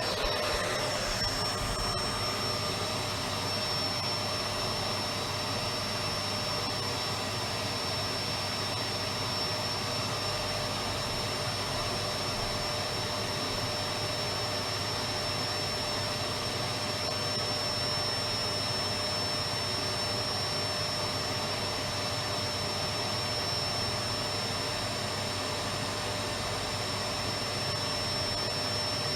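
Electric vacuum cleaner running steadily: an even rushing of air with a constant high motor whine, starting at once and not changing.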